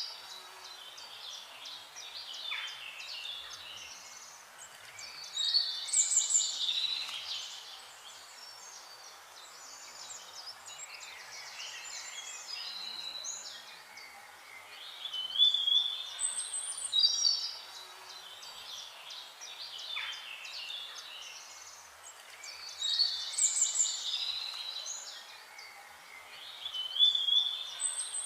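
Songbirds singing and chirping steadily, with a louder burst of song every several seconds, four in all.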